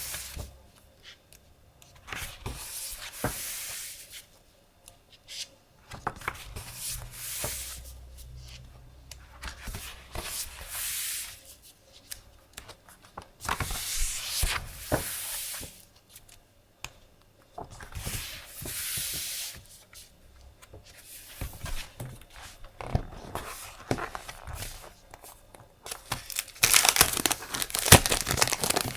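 Sheets of decorative craft paper being handled close to the microphone: a series of rustling strokes, each about a second long and a few seconds apart, as sheets slide and are turned over. Near the end the rustle turns denser and crackly.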